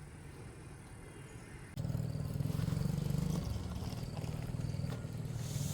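Car engine running, coming in abruptly about two seconds in, running higher for a second or so and then settling to a steady idle.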